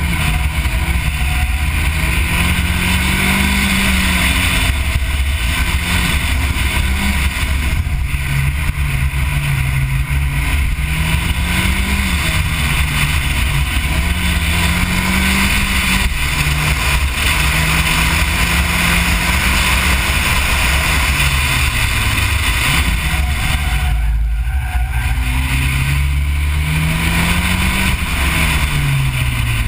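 Mazdaspeed 3's turbocharged 2.3-litre four-cylinder engine driven hard through an autocross course, its pitch climbing and dropping again and again as the car accelerates and slows between cone sections, over a steady low rumble.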